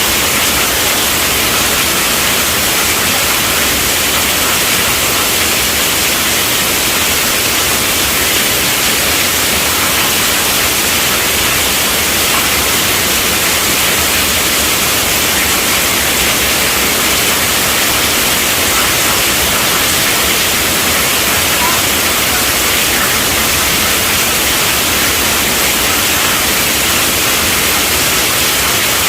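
Steady heavy rainfall, a dense, even hiss with no distinct drops or breaks.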